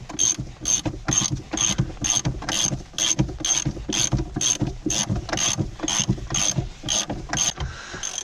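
Socket ratchet clicking in a steady rhythm, about three strokes a second, as bolts are undone.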